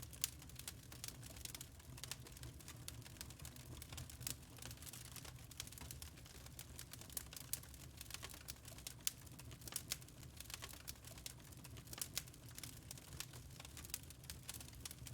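Wood fire crackling quietly, with irregular snaps and pops over a steady low rumble.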